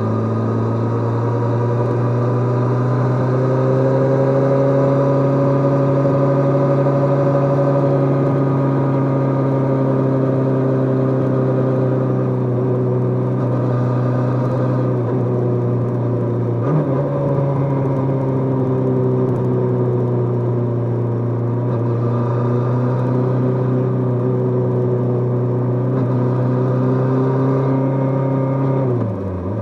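Kawasaki GPZ550's air-cooled inline-four engine under way at steady cruising revs, its note rising slightly early on and holding even. A brief break in the note about two-thirds through, and the revs drop just before the end.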